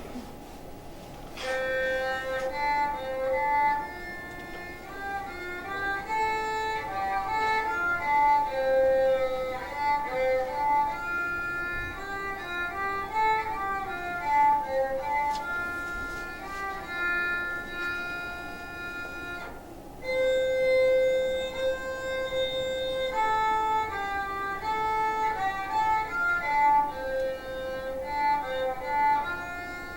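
Solo violin playing a slow melody of held, singing notes, starting about a second and a half in, with a short break about two-thirds of the way through before the tune resumes.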